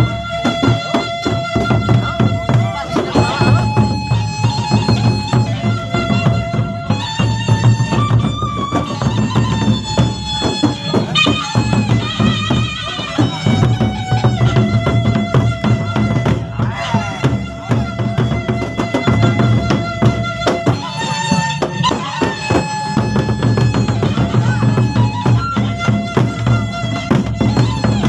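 Gendang beleq ensemble playing: large Sasak drums with cymbals beating a dense, fast rhythm under a melody of held notes on a wind instrument.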